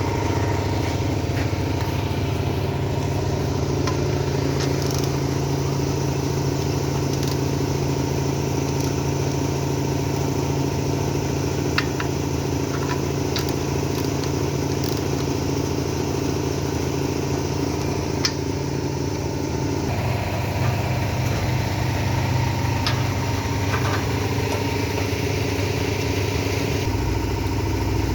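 BMW engine idling steadily, its idle note shifting slightly about two-thirds of the way through, with a few faint clicks over it.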